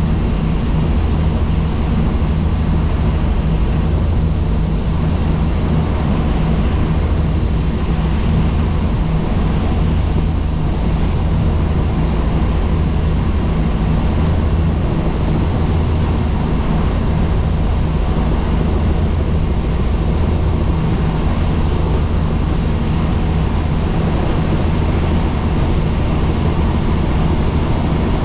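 Helicopter in flight: a loud, steady low drone of rotor and engine that does not change.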